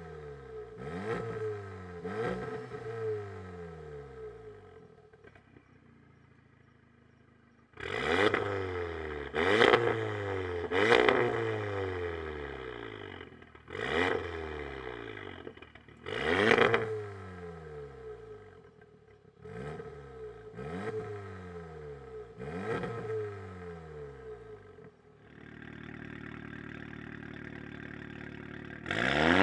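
Audi S3 8V's turbocharged four-cylinder engine through an Armytrix valvetronic exhaust, revved about ten times, each rev climbing quickly and falling back. Between the revs it settles back to idle, and near the end it idles steadily.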